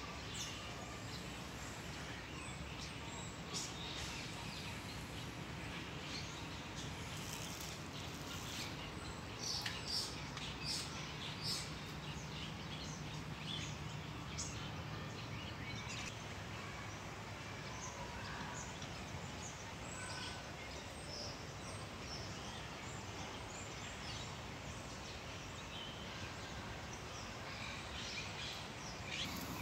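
Steady outdoor background hiss with small birds chirping here and there, a little busier about ten seconds in.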